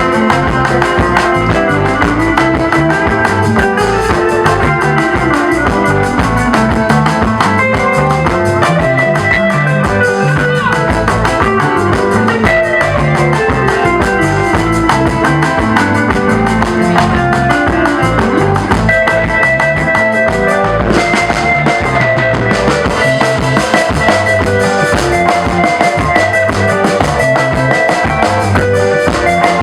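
Congolese band music played live: lead guitar lines over a drum kit keeping a steady beat.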